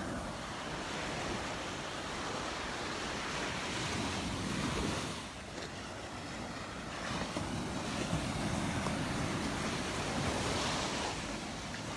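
Gulf of Mexico surf washing onto the beach, swelling twice and falling back, with wind buffeting the microphone.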